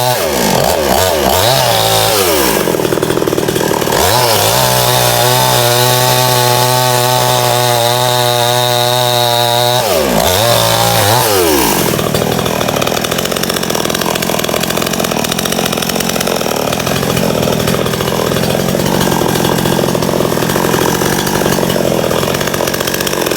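Small Stihl chainsaw running at high revs. Its engine note dips and climbs back twice as the throttle is eased and opened again. About halfway through it starts cutting into a log and the sound turns rougher under load.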